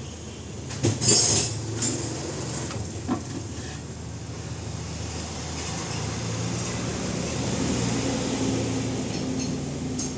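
A vehicle running, a steady low drone that grows louder through the second half, with a sharp metallic clank about a second in and a smaller knock a couple of seconds later.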